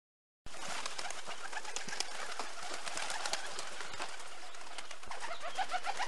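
Birds chirping over a steady hiss, starting abruptly about half a second in, with many short high chirps and a run of lower notes near the end.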